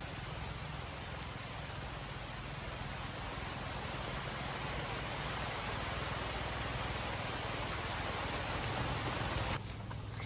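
Steady hiss of heavy rain with a constant high whine over it, cutting off suddenly about nine and a half seconds in.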